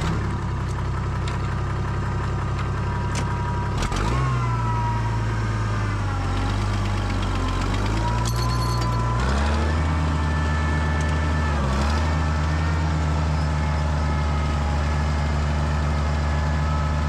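Tractor engine running, its speed shifting up and down several times, with a brief dip about twelve seconds in, and holding higher for the last several seconds.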